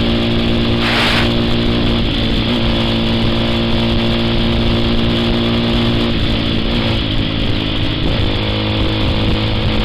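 A motorcycle engine running steadily, its tone shifting slightly a few times. A short burst of rushing noise comes about a second in.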